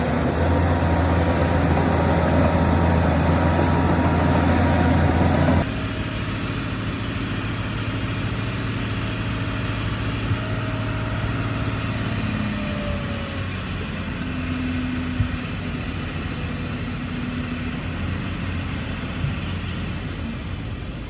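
Heavy diesel engine of earthmoving machinery running steadily. A loud engine note cuts off abruptly about five and a half seconds in and gives way to a quieter engine sound with a few faint whines.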